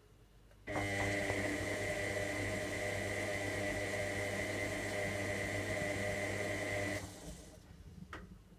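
Electra AWF683 washing machine: an electric unit inside it switches on abruptly about a second in with a steady mains hum, a high whine and a rushing hiss. It runs evenly for about six seconds and cuts off suddenly, followed by a couple of faint clicks near the end.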